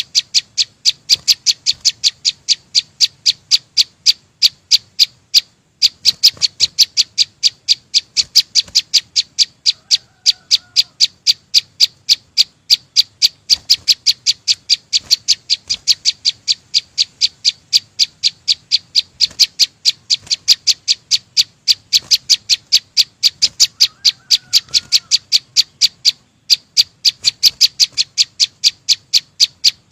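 Small green songbird (chim sâu xanh) repeating a short, sharp, high chip note about three to four times a second in an even run. The run breaks briefly about six seconds in and again near the end. A fainter, lower call comes in twice.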